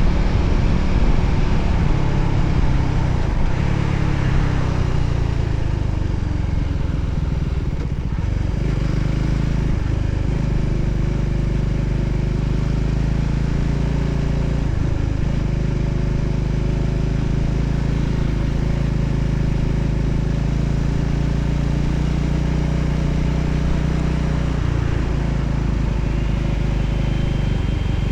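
Voge 300ACX motorcycle's single-cylinder engine running at a steady cruising pace, with wind noise over it. The engine note dips briefly a few times.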